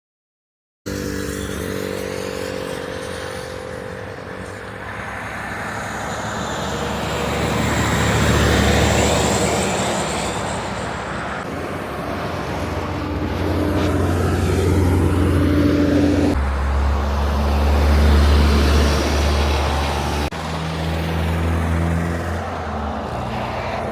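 Heavy trucks driving by on a road: diesel engines running with tyre and road noise, swelling as they pass. The sound starts suddenly after a second of silence and changes abruptly twice further on, where separate clips are joined.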